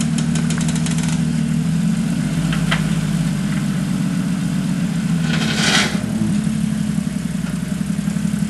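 Off-road vehicle's engine running steadily at idle while it crawls over rock, with a quick run of clicks in the first second and a short hissing scrape about five and a half seconds in.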